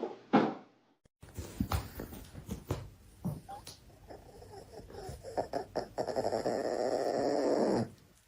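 A dog making sounds, mixed with scattered taps and knocks. A steadier, louder noise fills the last two seconds.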